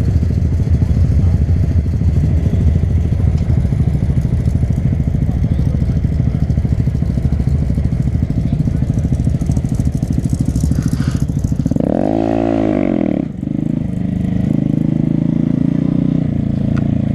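Motorcycle engine running steadily, with one short rev about twelve seconds in that rises and falls back in pitch.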